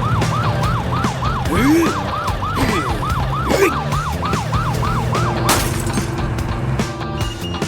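Cartoon police siren yelping fast, about three or four rises and falls a second, over a steady low hum. It stops with a crash about five and a half seconds in, and music comes in near the end.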